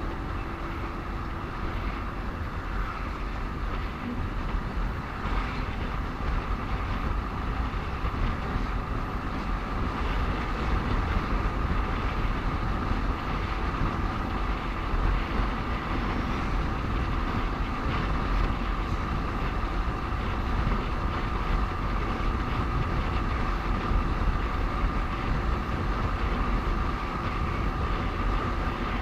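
Motorcycle riding in road traffic: steady engine and road noise with wind rumble on the microphone and a steady whine, growing a little louder about ten seconds in.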